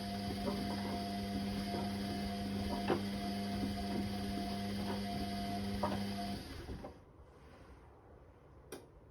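Whirlpool Indiana 1400 washing machine's drum running, with a steady motor hum and scattered knocks, then stopping about six and a half seconds in. A single sharp click comes near the end.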